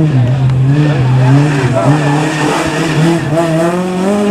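Rally car engine running hard, its pitch climbing and then dropping several times as the revs rise and fall on and off the throttle.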